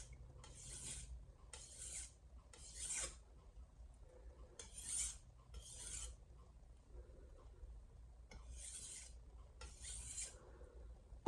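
VG10 steel santoku edge drawn across a Shapton Glass 500-grit water stone with light deburring strokes: about eight short scrapes, several in quick pairs, with pauses between.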